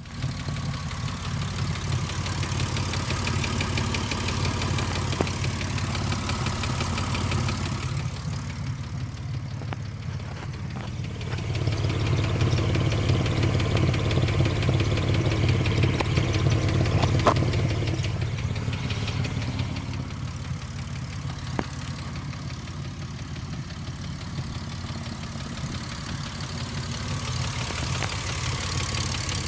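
2005 Ford Mustang engine idling steadily with a ticking noise, its exhaust note heard low and even. It grows louder for several seconds partway through, then eases back.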